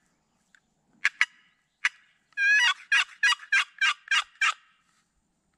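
Turkey gobble: a rapid rattling run of about eight notes lasting about two seconds, preceded by three short, sharp clucks or cutts.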